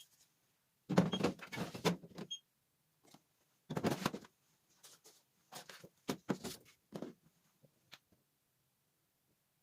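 Household handling noise: short spells of knocks and clatter as objects are picked up and set down, with quiet gaps between and none after about eight seconds in.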